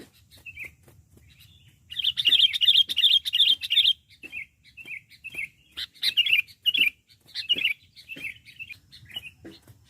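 Sooty-headed bulbul (kutilang) calling: a loud, fast chattering run about two seconds in, followed by a string of short bubbly phrases.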